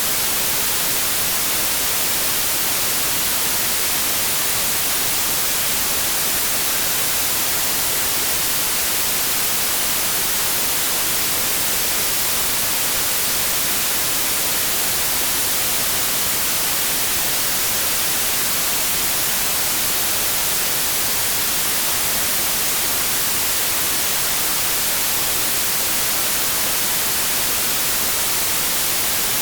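Steady electronic white noise: an even, unchanging hiss like radio static, brightest in the high frequencies.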